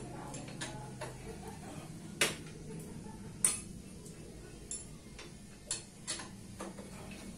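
Irregular sharp metallic clinks and taps of tools and metal parts being handled, two of them louder, over a faint steady low hum.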